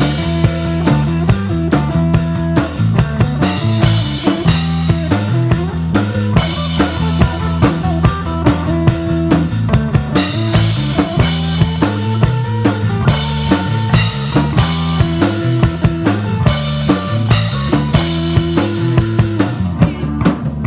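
Live rock-and-roll band playing an instrumental break: a drum kit keeps a steady beat under electric guitar.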